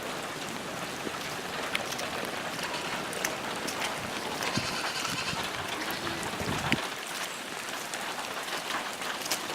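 Steady rain falling, with scattered drops ticking on surfaces. A Kiko goat bleats around the middle.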